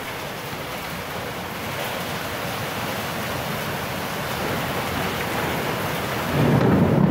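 Heavy rain pouring onto a flooded street and running floodwater, a steady even hiss. About six seconds in, a louder low rumble sets in.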